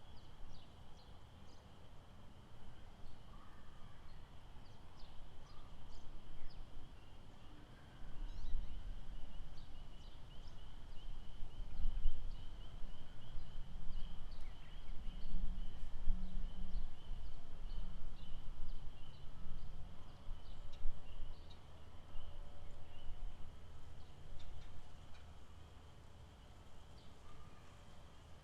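Outdoor lakeside ambience: a steady, high-pitched chorus of frogs with scattered short chirps. A low rumble swells in about eight seconds in and eases off after about twenty seconds.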